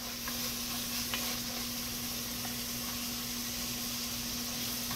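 Chopped vegetables sizzling steadily in oil in an enamelled cast-iron Dutch oven, with a few faint light clicks as pieces drop in and are stirred. A low steady hum runs underneath.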